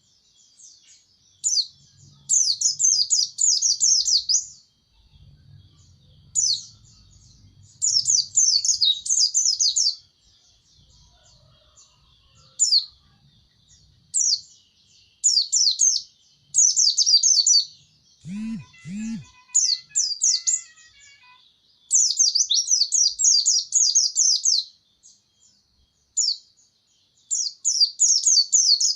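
A pleci (white-eye) singing in rapid, high-pitched twittering phrases, each burst a second or three long, with short pauses between them. Two short low sounds come about two-thirds of the way through.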